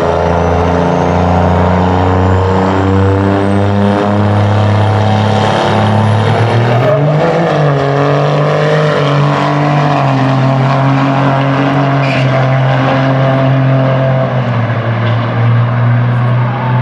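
Loud, steady vehicle engine noise: several low engine drones running, shifting pitch a few times, with a thin whistle rising in pitch over the first several seconds.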